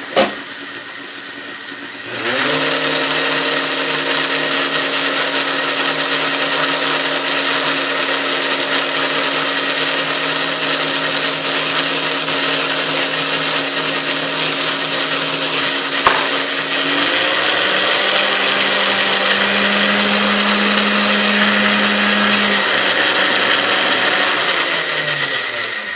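Restored Hamilton Beach Model D stand mixer's brushed motor spinning up about two seconds in and running steadily with a whirring hum. After a click partway through its pitch shifts, as the speed is set during a speed adjustment, and near the end it winds down.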